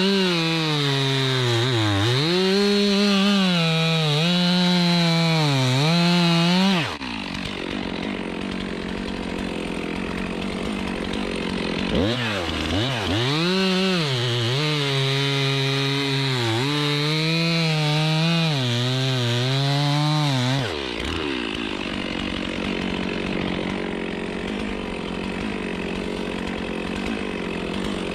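Chainsaw cutting wood in two long runs, its pitch sagging and recovering again and again as the chain bites. Between the runs and after the second, the sound drops to a quieter, steadier level.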